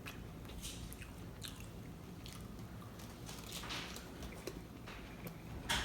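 Someone eating a taco: wet biting and chewing with scattered mouth clicks, and one louder click near the end.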